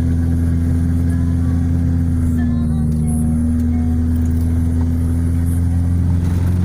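A car's engine and road noise drone steadily, heard from inside the cabin with the windows open. The engine note dips slightly about halfway through, and a few faint short chirps sound over it.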